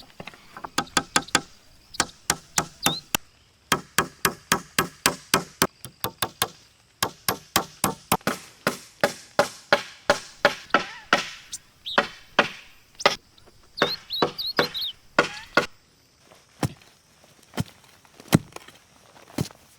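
Rapid runs of sharp chopping knocks, several a second, with short pauses between the runs. A few high chirps come in about two-thirds of the way through.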